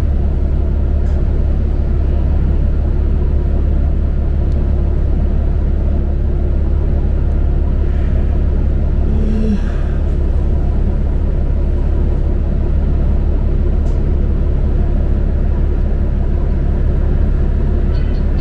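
Cabin of a New Flyer XD40 diesel transit bus under way: steady, loud low engine and road rumble, with a brief faint squeak about halfway through.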